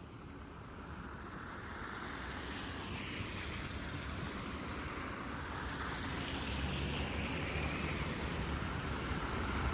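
Tyre hiss of traffic on a wet, slushy street, growing steadily louder as a vehicle approaches, over a low rumble of wind on the microphone.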